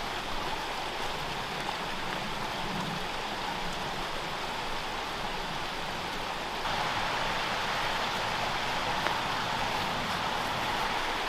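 Steady rushing of the South River's stream water, getting louder about two-thirds of the way through.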